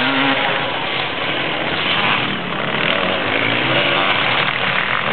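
Motorcycle engine running loudly as the bike goes past, its pitch rising briefly about three seconds in, under a heavy wash of noise.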